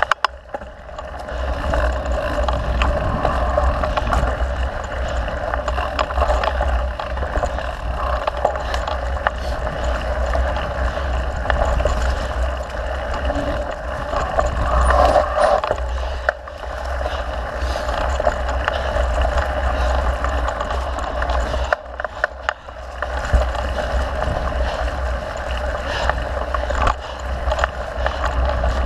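Mountain bike rolling over a dirt trail with wind rushing over the camera microphone: steady rumble and hiss from wind and tyres, broken by a few sharp knocks and rattles from the bike.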